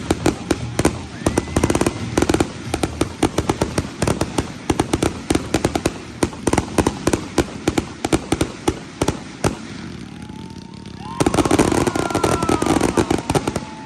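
A fireworks grand finale: rapid, dense volleys of bangs and crackles go off for most of the stretch and thin out to a lull about ten seconds in. Near the end a crowd breaks into loud cheering and whistling.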